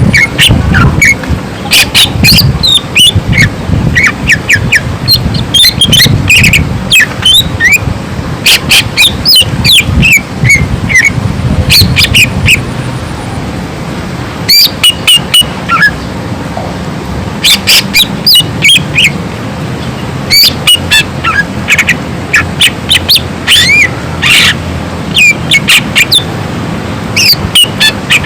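Cucak ijo (green leafbird) singing in loud bursts of rapid, sharp whistled shots, chirps and gliding notes, with brief pauses between phrases. A low rumble lies underneath.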